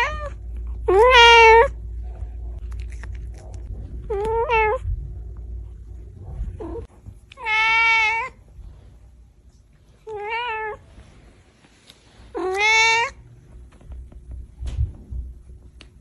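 Domestic cat meowing five times, each a drawn-out meow of under a second, spaced about three seconds apart.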